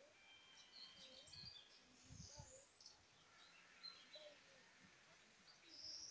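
Near silence: faint rural outdoor ambience with scattered high, short bird chirps, the clearest one near the end.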